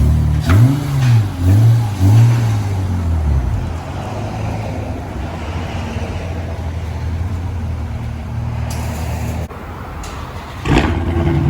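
Acura TL V6 engine revved three times in quick succession through its exhaust, the pitch climbing and falling each time, then settling into a steady idle. The note drops about two seconds before the end, and another loud engine burst starts near the end.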